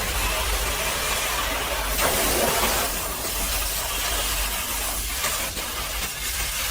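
Pressure washer spraying a high-pressure water jet onto a mud-caked truck: a steady hiss over a low motor hum, briefly louder about two seconds in.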